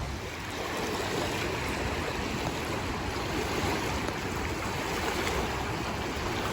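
Wind buffeting the microphone outdoors: a steady rushing noise with a strong low rumble.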